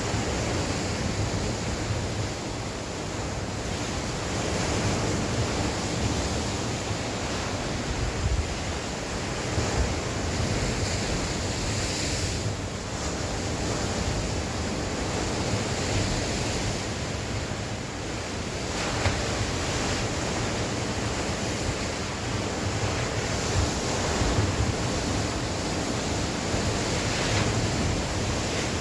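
Sea waves breaking and washing on the shore, a continuous surging noise that swells and eases, with wind buffeting the microphone.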